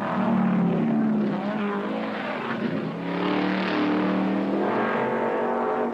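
Race car engines running at high revs, their pitch rising and falling as the cars accelerate and pass.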